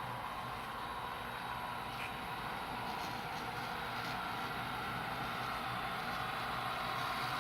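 Model diesel locomotive's sound decoder playing a running diesel engine through the model's small speaker, steady and slowly getting louder.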